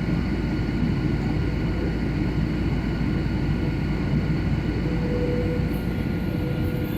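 Steady drone of an airliner's engines and airflow heard inside the cabin in flight: a constant low rumble with a few steady hum tones over it.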